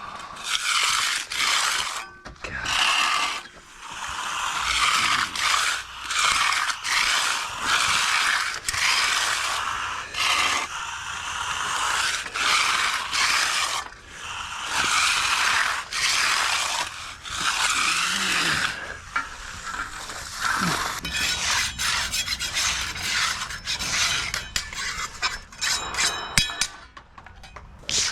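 Hand finishing tools scraping across fresh concrete in repeated strokes, about one every second or two, turning into quicker, shorter scrapes over the last several seconds.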